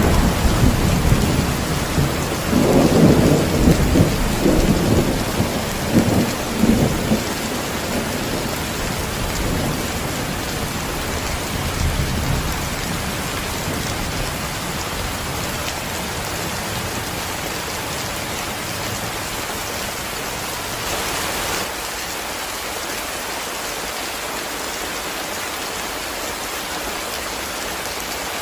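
Heavy rain falling steadily, with rolling thunder in the first several seconds that swells twice and then fades away, leaving the rain alone.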